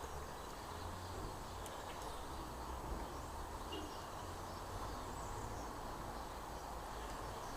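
Quiet outdoor background noise: a steady low rumble of wind, with no clear work sound standing out.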